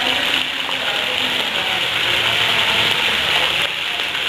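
Raw chicken pieces sizzling steadily in hot ghee with browned onions, a loud, dense crackle of meat frying in the pot.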